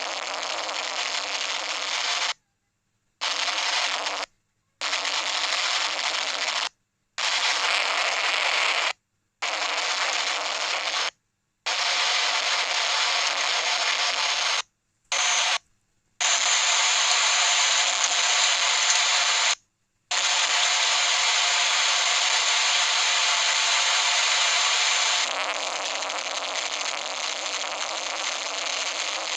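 Heavy thunderstorm downpour: a dense, steady hiss of pouring rain. It is broken by about eight sudden cuts to complete silence, and softens slightly near the end.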